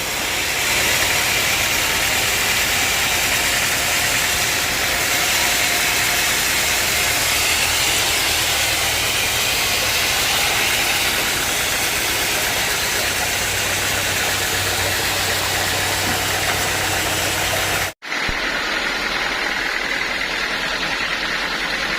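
Sawmill machinery running steadily: a low engine hum under a loud, even hiss. About 18 s in the sound cuts out abruptly for a moment and comes back as a thinner, steadier noise.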